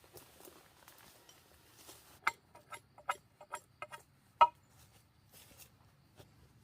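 A quick run of about eight sharp knocks and clicks over two seconds, the last one the loudest, amid faint rustling.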